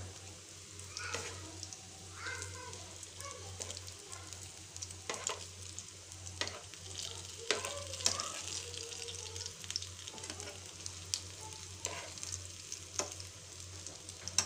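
Bread Maggi rolls shallow-frying in oil in a steel pan: a steady sizzle with frequent sharp pops, and a metal spoon clinking and scraping against the pan as the rolls are turned.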